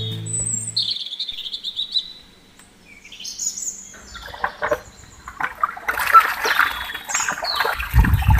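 Birds chirping and calling: a few separate whistled chirps and gliding calls, then a denser run of chirps and squawky calls from about halfway through. Background music fades out about a second in.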